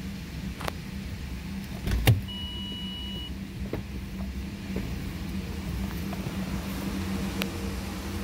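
2010 Ford Explorer's 4.0-litre V6 idling steadily. About two seconds in there is a sharp thud, followed by a single high chime that lasts about a second, and a few light clicks later on.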